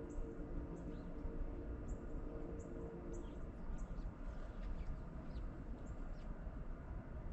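Small birds chirping, short high notes repeating every half second or so, over a steady low rumble; a steady hum fades out about three seconds in.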